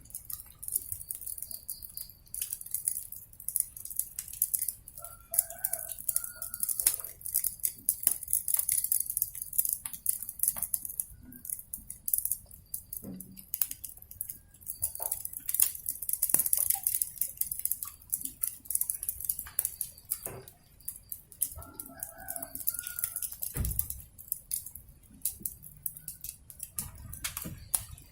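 Wood fire crackling with a steady hiss, many sharp pops throughout. A rooster crows twice in the background, about five seconds in and again near twenty-two seconds.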